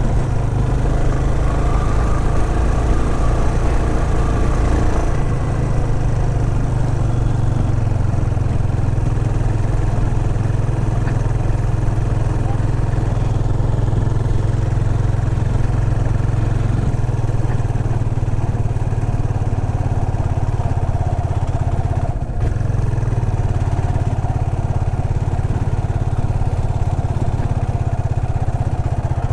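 Yamaha Fazer 250's single-cylinder engine running steadily under load as the motorcycle climbs a steep cobblestone road at low speed. The engine note dips briefly about three quarters of the way through.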